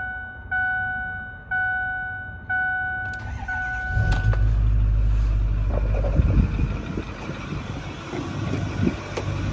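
A vehicle warning chime sounds in two tones about once a second, four times. About four seconds in, the chime stops as the 2008 Ford 6.4 L Power Stroke V8 diesel starts, runs up loudly and settles into a steady idle.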